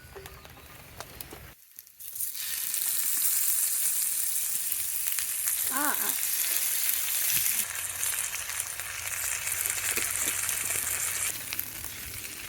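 Loud, steady hiss that starts suddenly about two seconds in and eases slightly near the end, with one short pitched call about six seconds in.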